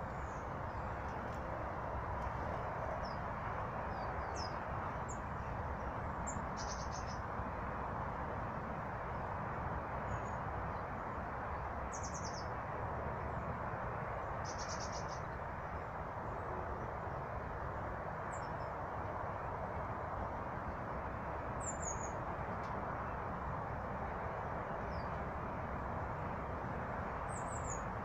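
Small birds giving short, high chirps every few seconds, a few in quick little runs, over a steady rushing background noise.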